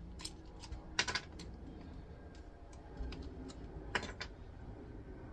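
Irregular small metallic clicks and ticks as hand tools work on an electric motor's copper windings, with the clipped windings being pulled through the stator. The loudest clicks fall about a second in and about four seconds in.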